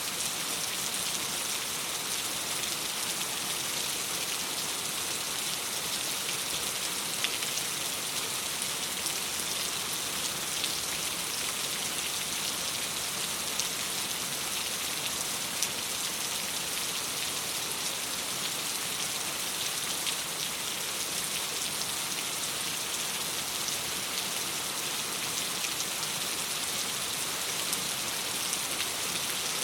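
Steady rain falling on a window: an even, unbroken hiss with faint scattered ticks.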